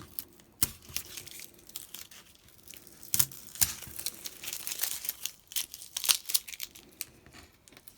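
Tape being peeled slowly off a watercolour-paper bookmark, an irregular crackling rasp with sharper tearing snaps as it lifts away from the border.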